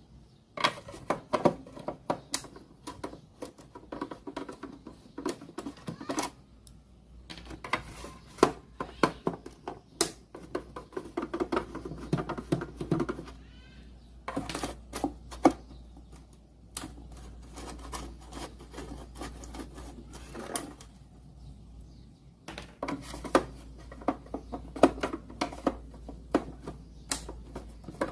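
Irregular clusters of sharp clicks and taps from hand tools and plastic parts being handled on a cassette radio under repair, with short pauses between the clusters and a low steady hum beneath.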